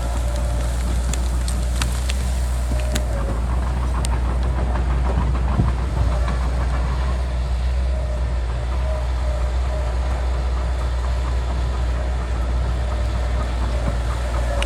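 Bulldozer's diesel engine running steadily under load, with a deep constant drone and a few short sharp cracks in the first few seconds.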